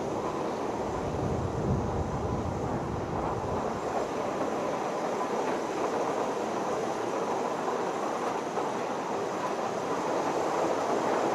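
A train running, a steady rumbling and rattling ride noise that is heavier in the low end in the first couple of seconds.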